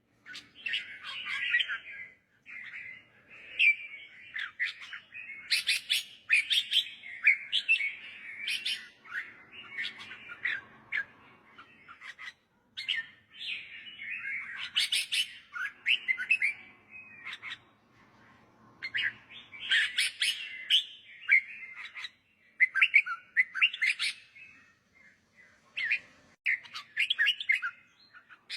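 Red-whiskered bulbul singing: quick runs of chirped and whistled phrases with short pauses between them.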